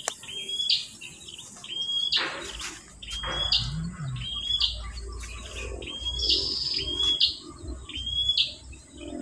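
A bird repeating a short, high call that rises in pitch, about once a second, with a brief rush of noise about two seconds in.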